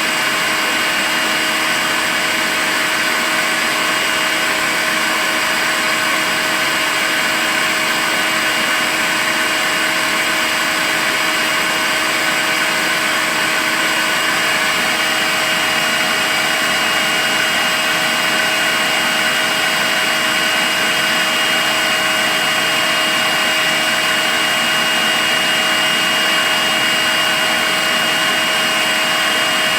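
Makita cordless vacuum cleaner running continuously at a constant speed: an even rushing hiss with a steady high motor whine.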